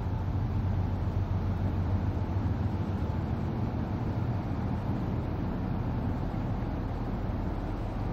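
Steady low engine drone of a long river boat passing on the Danube, a little louder in the first few seconds.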